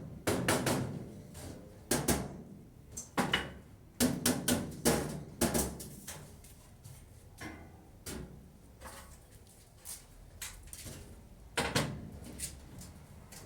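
Irregular knocks, clicks and clatter of hard objects being handled and set down, busiest in the first half and again shortly before the end.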